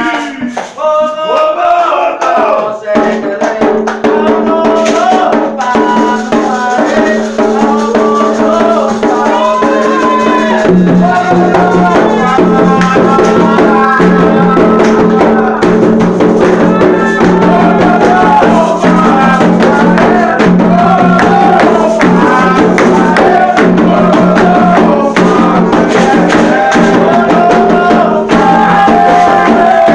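Candomblé sacred music for Xangô: singing over drums and a shaken rattle, with low sustained notes filling in about ten seconds in.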